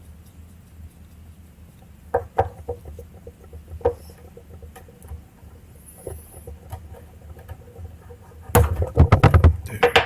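Small metal and plastic parts of a motorcycle ignition switch being handled and pried apart by hand: scattered light clicks and taps, then a quick run of loud clicks and rattles near the end.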